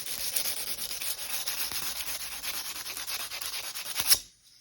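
Rapid, steady abrasive rubbing on the steel blade of a chef's knife, scrubbing dirt off its surface. It stops abruptly with a short, louder scrape about four seconds in.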